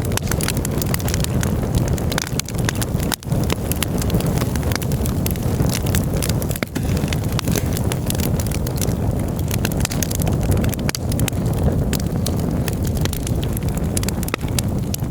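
Campfire burning, with many small crackles and pops scattered over a steady low rumble.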